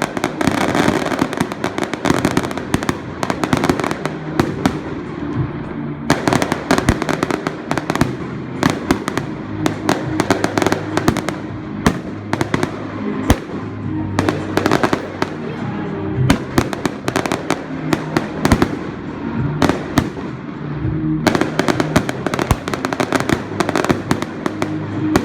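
Fireworks display: rapid runs of sharp bangs and crackling reports, thinning out twice and then picking up again. Music plays steadily underneath.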